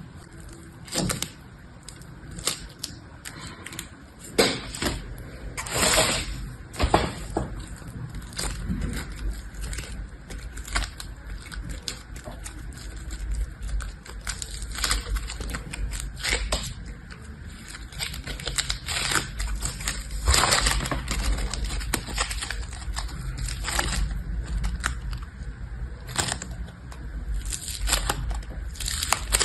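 Irregular crackling, clicking and scraping as things are handled by hand, with sharp clicks every fraction of a second and a steady low rumble underneath.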